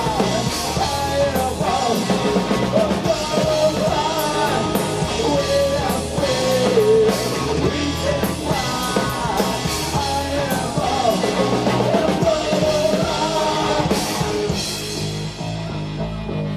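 Rock band playing live, with drum kit, bass and a bending lead melody over them. The cymbals thin out near the end.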